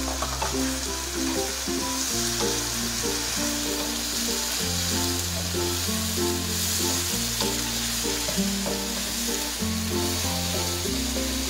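Stir-fry of beef skin (kikil) and green chilies sizzling steadily in a wok as it is stirred with a spatula, under background music with slow bass notes and a light melody.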